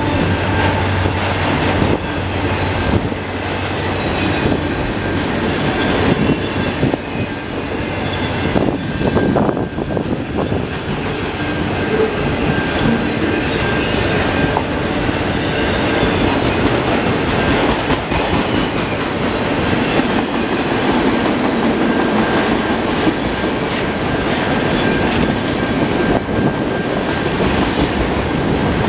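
Freight train of auto rack cars rolling past close by: steel wheels rumbling and knocking over the rails, with a thin high wheel squeal that comes and goes.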